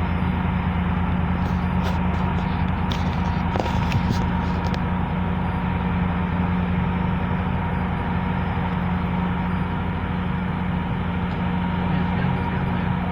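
GO Transit train's diesel locomotive running steadily: an even drone with a constant low hum, and a few light clicks between about one and five seconds in.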